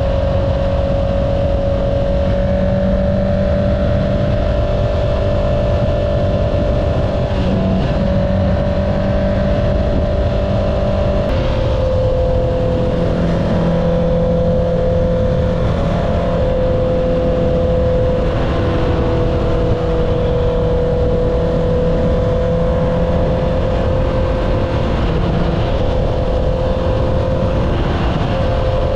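Honda CBR650R inline-four with an Akrapovic exhaust, running at steady cruising revs under constant low wind rumble. The engine note drops sharply once about eleven seconds in, then holds steady again.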